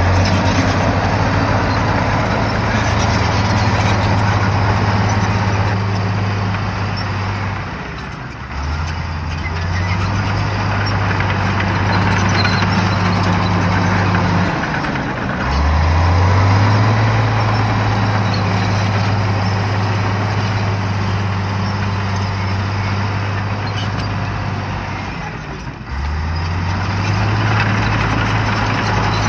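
Shantui bulldozer's diesel engine running hard, its note dropping briefly and climbing back three times: about eight seconds in, about halfway, and near the end.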